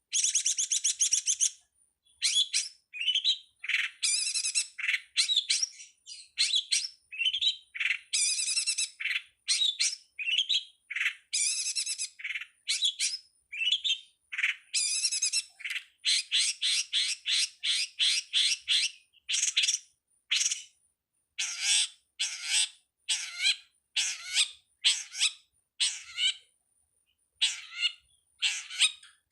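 Long-tailed shrike (pentet/cendet) singing a fast, varied run of chirps and squawky notes in short phrases separated by brief pauses.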